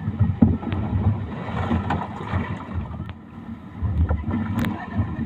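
Uneven wind rumble on the microphone over boat and water noise, with a sharp click near the end.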